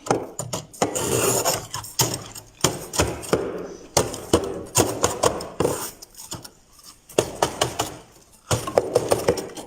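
Freezer frost being eaten: a run of irregular, squeaky crunches as it is bitten and chewed, easing off into a quieter stretch a little past the middle before the crunching picks up again.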